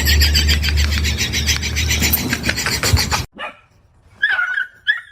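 A dog making a loud, harsh, rapidly pulsing noise that cuts off suddenly about three seconds in, followed by a few short high-pitched squeaks.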